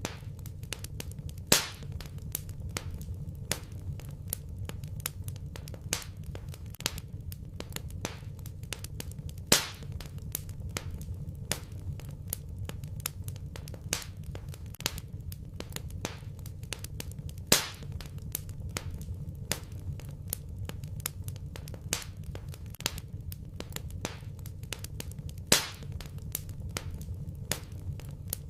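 Wood fire crackling in a fireplace: a steady stream of small crackles over a low rumble, with four louder pops at about eight-second intervals.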